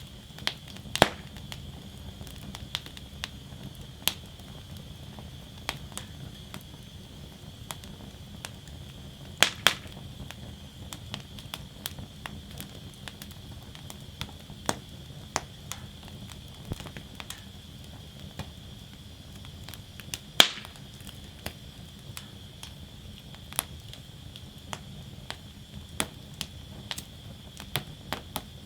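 Wood fire burning in a fire basket: a steady low rustle of flames with irregular crackles and snaps of burning wood, a few of them sharp, loud pops.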